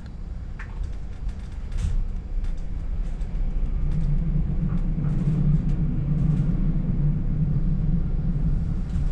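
Regional express passenger train running, heard from inside the carriage: a steady low rumble that grows louder about four seconds in, with scattered light clicks.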